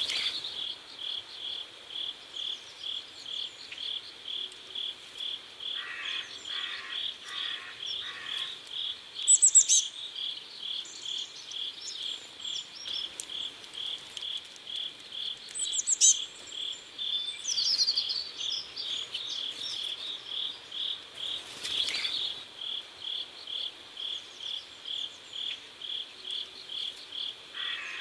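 Crickets chirping steadily in a regular pulse, about three chirps a second. A few short, high bird chirps break in around 9 s, 16 s and 18 s.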